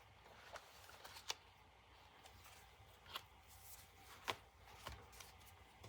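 Faint rustling of paper pages and cards being handled in a handmade journal, with a few light taps, the clearest about a second in and about four seconds in.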